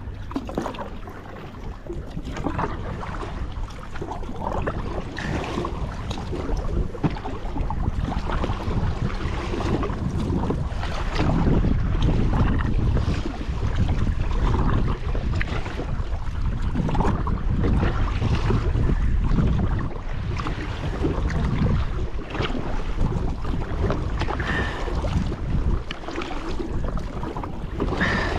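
Wind buffeting the microphone over the splash and wash of kayak paddles dipping in open water. The sound grows louder over the first few seconds.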